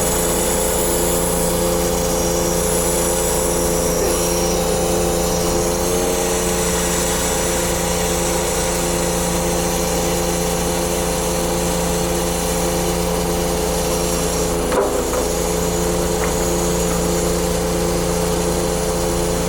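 Truck diesel engine running steadily, a hum with several fixed tones, with a single short knock about fifteen seconds in.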